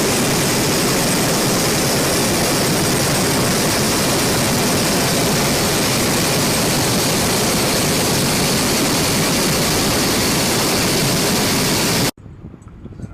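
Apache attack helicopter in operation: a loud, steady rush of turbine and rotor noise that stops abruptly near the end at an edit cut.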